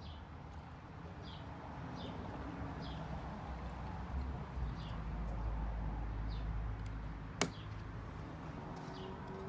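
A small bird chirping repeatedly in the background, short high calls every half second to a second, over a low rumble that swells in the middle. A single sharp click comes about seven and a half seconds in.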